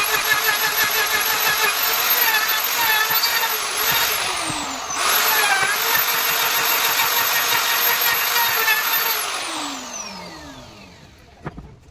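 Handheld electric power tool running at high speed, a high-pitched motor whine whose pitch sags briefly a few times as it bites into the wood. About five seconds in it winds down and is straight away run back up to speed. Near the end it is switched off and the whine falls away as it spins down, followed by a couple of light clicks.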